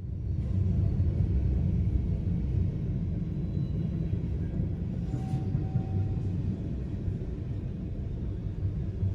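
Train passing on the railway line, a steady low rumble that begins suddenly and runs on without a break.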